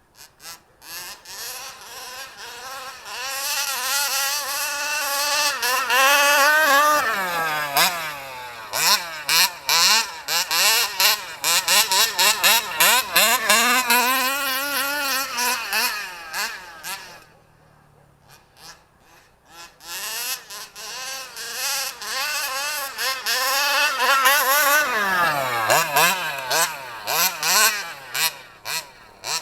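HPI Baja SS 29cc two-stroke engine running with a high buzz, its pitch rising and falling as the throttle is worked and the car drives. The sound fades out for a few seconds just past halfway, then comes back and revs up again.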